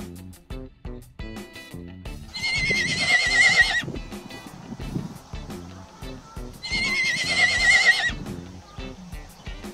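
Horse whinnying twice, each a wavering, trilling call about a second and a half long, over background music. A run of sharp clicks comes in the first two seconds.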